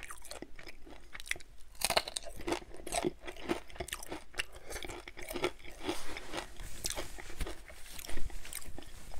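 Close-miked chewing of crispy bacon: a steady run of irregular crisp crunches and mouth sounds.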